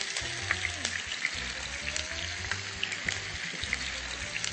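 Tofu pieces sizzling in shallow hot oil, a steady crackle with frequent sharp pops, as they pan-sear to brown on one face. Soft background music runs underneath.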